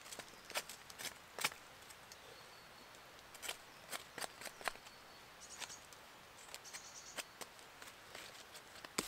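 Quiet woodland with scattered short clicks and rustles from close by, and a few faint, high bird chirps around the middle and later on.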